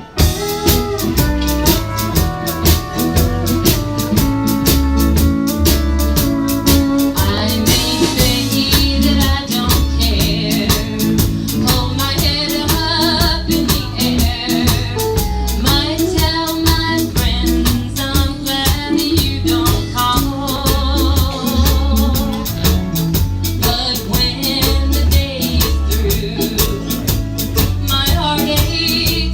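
A small band playing, with a drum kit keeping a steady beat under bass and melodic instruments.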